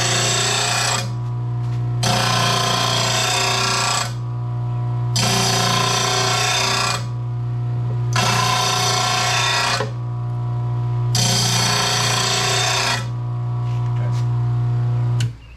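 Bench grinding wheel of an RBG 712 mower blade sharpener running with a steady hum while a lawn mower blade is drawn across it in five passes. Each pass is a second or two of loud grinding, with short gaps between. The motor cuts off near the end.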